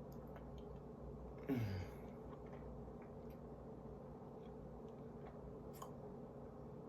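Faint chewing and mouth sounds from a person eating, with a short falling 'mm' hum about a second and a half in, over a steady low electrical hum.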